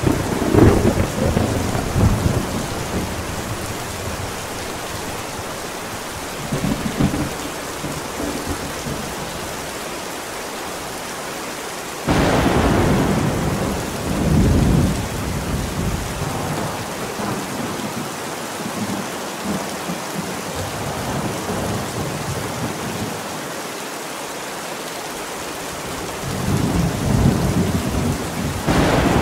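Steady rain with thunder. A rumble of thunder at the start, another briefly a few seconds later, then a sudden sharp thunderclap about twelve seconds in that rolls on for several seconds, and a further rumble building near the end.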